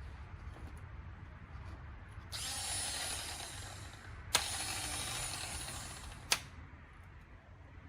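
Two short bursts of mechanical whirring, each under two seconds, with a sharp click as the second one starts and another as it stops.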